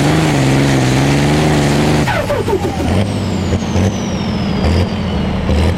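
Limited prostock pulling tractor's turbocharged engine held at full power, then shut off about two seconds in. Its note drops away, and a high whistle from the turbo falls slowly in pitch while the engine runs on low and uneven.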